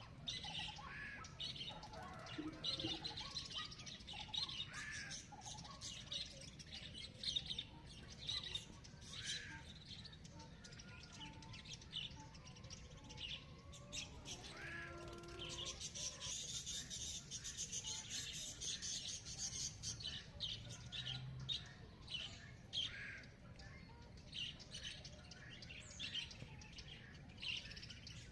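Several small birds chirping and twittering in a busy morning chorus, with a lower, clearer call about halfway through and a dense high trill just after it. A steady low background rumble runs underneath.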